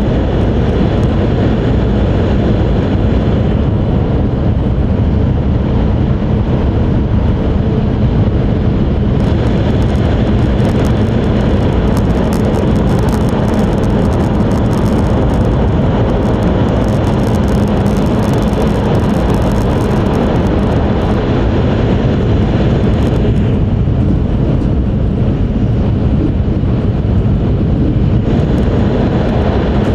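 Steady running noise heard inside the cabin of an E5 series Shinkansen travelling at speed, mostly a deep rumble. A rushing hiss in the upper range swells about a third of the way in, fades away about three quarters through, and comes back near the end.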